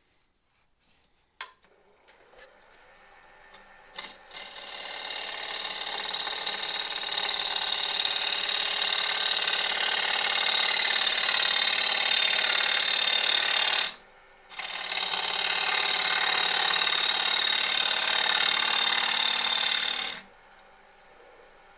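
Laguna Revo 1836 lathe switched on with a click and spinning up, with a high, steady whine. Then a bowl gouge shears wood off a spinning cherry bowl blank to form a tenon: a steady, even cutting sound for about ten seconds, a short break, and about six seconds more before the cut stops.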